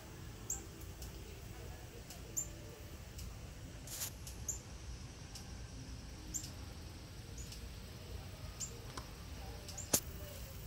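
Short, high bird chirps scattered every second or two over a low, steady outdoor rumble. A sharp click near the end is the loudest sound.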